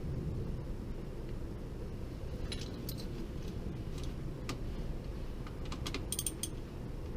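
Light metallic clinks and clicks of tools and small metal parts being handled, a few scattered and a quick cluster about six seconds in, over a steady low hum.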